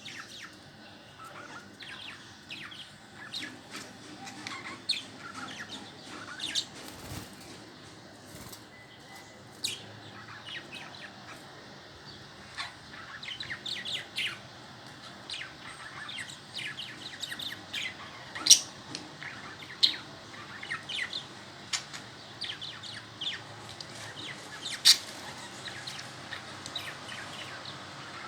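Pet budgerigars chirping and chattering: a continuous run of short, quick chirps, with a few louder sharp calls standing out, the loudest about two-thirds of the way through and again near the end.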